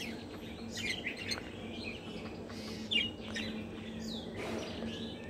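Birds chirping and twittering in short scattered calls, over a faint steady hum.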